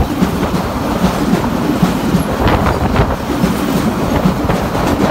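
Freight train of car-transport wagons loaded with vans rolling past at close range: a steady rolling rumble with wheels clacking over the rail joints.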